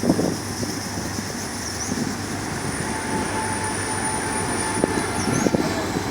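Sri Lanka Railway Class S13A diesel multiple unit running on the rails: a steady rumble of wheels and train with scattered knocks.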